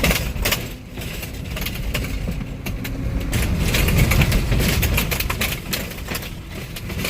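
Vehicle tires rolling over an old bridge deck of metal plates over wood: a loud, steady rumble with many irregular clanks and knocks from the deck.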